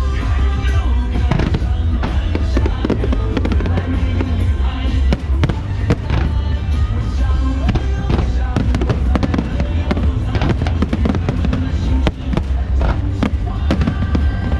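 Fireworks bursting in quick, irregular succession over loud music with a heavy bass.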